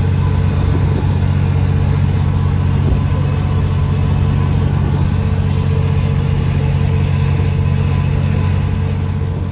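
A passenger ferry's engines running steadily while the boat is underway, a constant low rumble with a steady hum.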